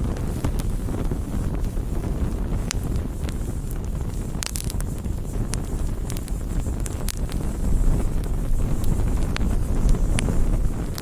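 Wood fire crackling, with scattered sharp pops and a small cluster of them about four and a half seconds in, over a steady low rumble.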